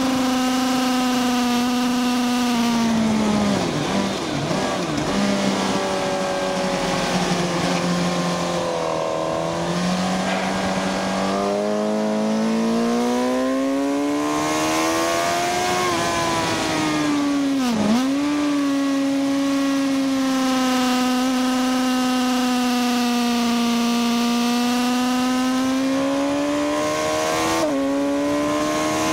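Sport motorcycle engine heard from on board at track speed, with wind rush. Its note drops as the bike slows for a corner, climbs again under throttle, dips sharply and recovers about two-thirds through, then holds steady before stepping up in pitch near the end.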